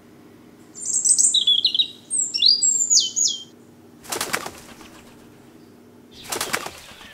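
A small bird chirping in a string of quick, high, sliding calls, then two rounds of rapid wing flaps, about four seconds in and again near the end, as a bird takes flight.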